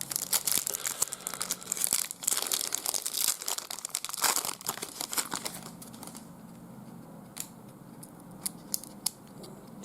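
Trading card pack wrapper being torn open and crinkled, a dense crackling for about five seconds, then quieter with a few light taps.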